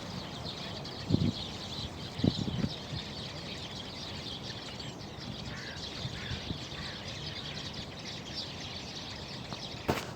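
A flock of small birds, which the listener takes for sparrows, chirping and twittering together in a busy, continuous chatter. A few soft low thuds come about one and two seconds in.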